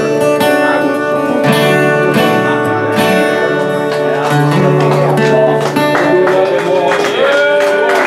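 Acoustic guitar strumming chords through the instrumental ending of a folk song, the chords ringing on between strums.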